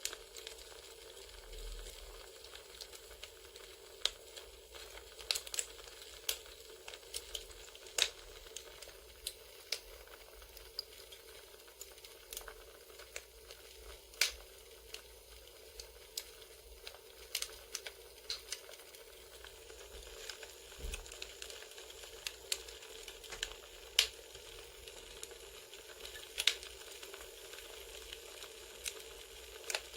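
Crackling wood fire ambience: a steady soft hiss with irregular sharp pops and snaps of burning logs.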